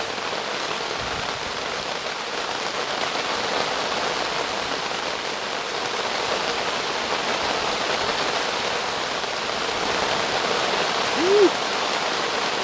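Heavy rain falling steadily in a thunderstorm, an even hiss of rain that swells slightly toward the end.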